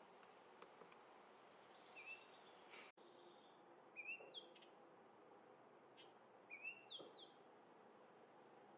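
Oriole singing short, slurred whistled phrases in a few separate bursts, over a faint, steadily repeating high note from another bird. A single sharp click comes near the middle.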